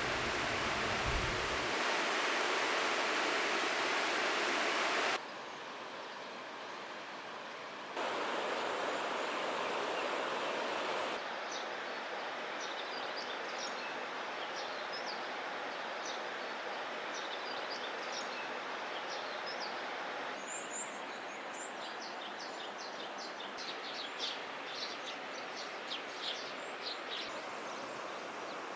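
Steady rush of a valley stream's flowing water, its level jumping at a few cuts, with small birds chirping over it from about a third of the way in, most busily near the end.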